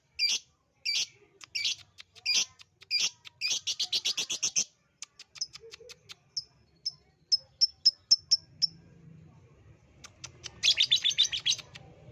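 Lovebird singing in sharp, repeated high chirps. A fast chattering trill runs about three and a half seconds in, then a string of short ticks and brief high tweets, and another fast trill near the end.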